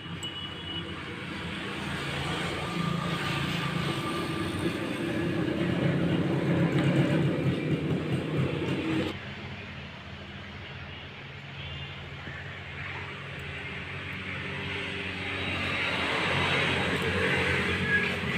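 Motor vehicle noise that swells, cuts off abruptly about nine seconds in, then builds again.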